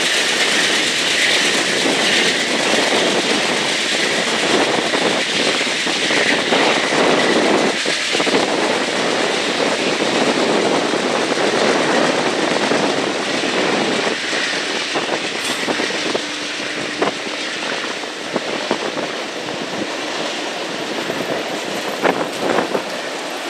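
A train rolling past, a steady loud rush of wheels on rail with a faint high squeal, easing off over the second half. A few sharp clicks come near the end.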